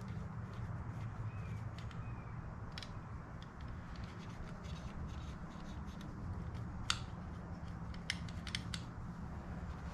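Light scratching and rubbing at a heater control knob, working off a buildup of cooked-on hand grease, with a few sharp clicks, most of them near the end. A steady low hum runs underneath.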